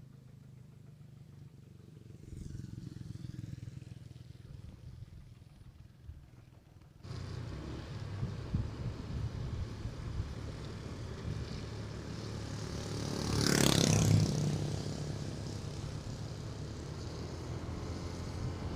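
Motorcycle engine running with a low, steady hum. About seven seconds in, loud wind and road noise suddenly join it, and a louder rushing swell passes about halfway through.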